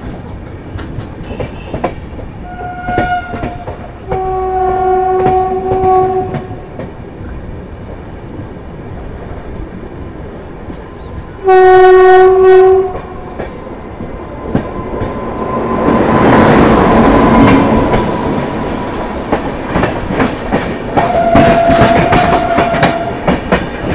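Train horns sound several times: a long blast a few seconds in and the loudest, shorter blast about halfway through, as an oncoming train closes in on the next track, over the clickety-clack of the moving Rajdhani Express coaches. After the midpoint a rush swells up as the Hirakhund Express passes close alongside, with another horn blast near the end.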